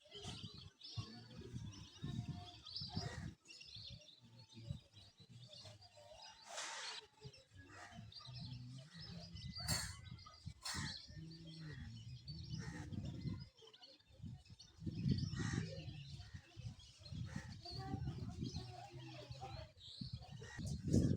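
Birds chirping and calling, with short scattered chirps, over a low wavering hum that comes and goes. There are a few brief sharp sounds in between.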